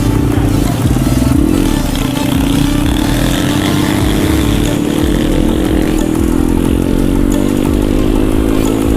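Single-cylinder pit bike engine running under way, its revs easing down slightly over the first few seconds and then holding steady.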